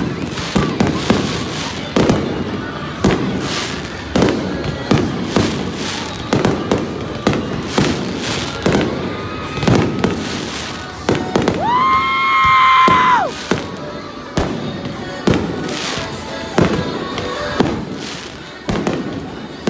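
Aerial fireworks shells bursting in quick succession, a sharp bang every second or so. About two-thirds of the way through, a steady high whistle sounds for about a second and a half.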